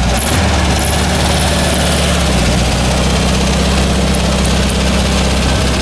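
A car engine idling steadily close by, with a slight change in its note near the start and again about halfway through.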